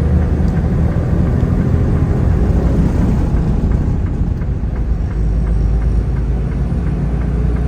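Steady engine and road rumble of a vehicle driving at highway speed, heard from inside the cab.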